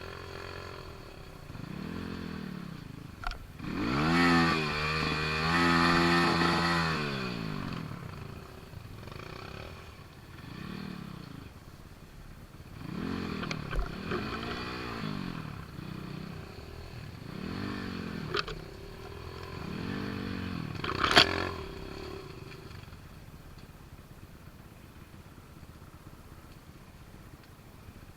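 Small motorcycle engine revved up and let fall back again and again, each rev lasting one to three seconds, the longest and loudest about four seconds in. Several sharp metallic clanks, the loudest about 21 seconds in.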